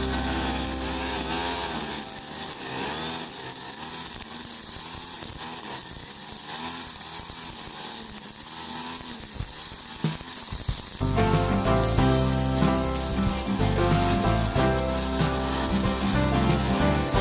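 Two-stroke brush cutter with nylon trimmer line cutting grass, its engine pitch rising and falling over and over as the line bites and frees. About eleven seconds in, loud background music takes over.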